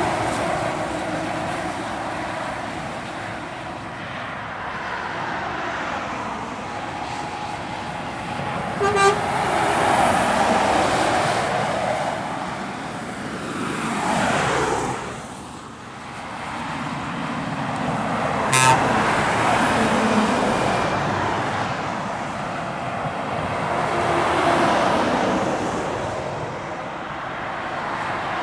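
Heavy lorries climbing a long hill under load and passing one after another, each swelling up and fading away. Two brief horn toots, about nine and nineteen seconds in.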